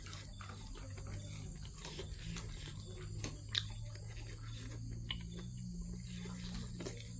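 Close-miked eating: chewing and lip-smacking with scattered short wet clicks, one sharper click about three and a half seconds in, over a steady low hum.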